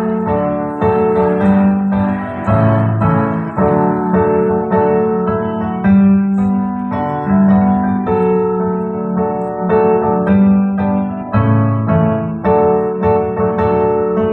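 Piano-voiced keyboard playing held chords, changing every second or two, with no singing.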